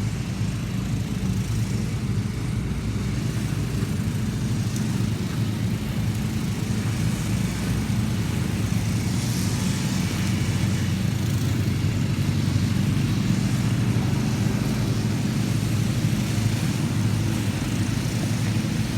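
A steady, loud engine drone.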